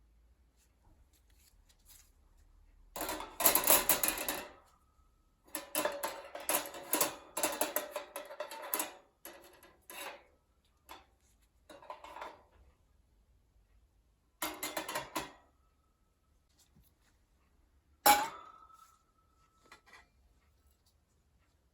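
Metal parts of a folding stainless-steel fire pit grill clattering and clinking as they are handled, in several bursts of rattling. Near the end comes one sharp metallic clang that rings briefly.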